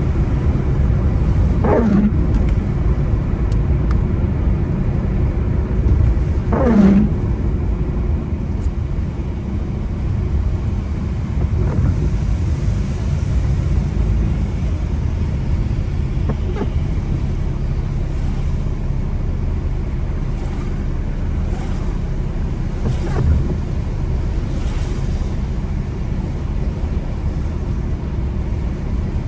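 Car driving on a wet road: a steady low rumble of road and engine noise. About every five seconds there is a short squeak that falls in pitch, the windscreen wipers sweeping.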